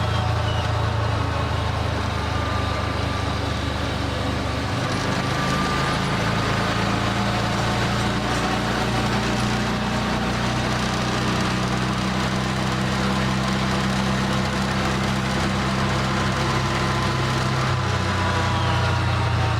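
John Deere Gator HPX 4x4 utility vehicle's engine running steadily while driving loaded with dirt, its engine note changing about five seconds in and again near the end.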